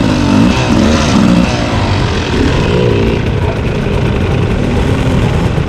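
Two-stroke dirt bike engine revving up and down, its pitch rising and falling with the throttle, settling to a steadier drone after about three seconds.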